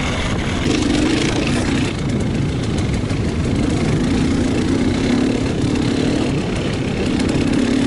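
A vehicle engine running steadily under a constant rushing noise, its low note swelling and easing slightly every second or so.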